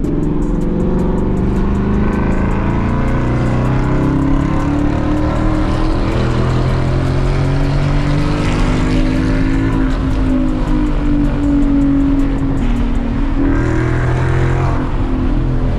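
Ford Mustang GT's 5.0 V8 running through an H-pipe and MBRP Race exhaust as the car is driven, its deep rumble rising and falling with the revs. The note dips and climbs again about thirteen seconds in.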